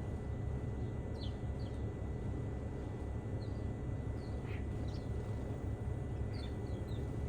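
Small birds chirping: scattered short, high, downward chirps, with one longer, rougher call about halfway through. A steady low rumble runs underneath and is the loudest thing heard.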